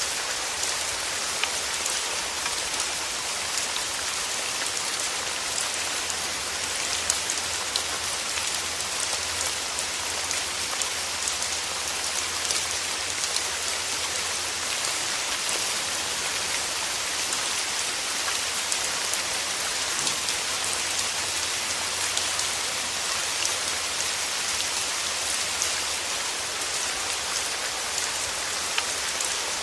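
Steady rain, a constant hiss of falling water with many fine drops ticking on a surface.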